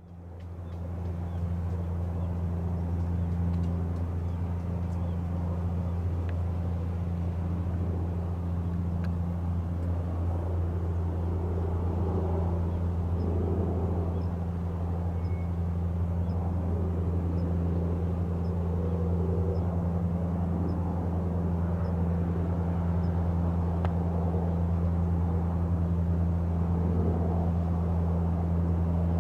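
Airbus Helicopters EC225LP Super Puma's turbines and rotor running steadily, a constant low hum that fades in at the start.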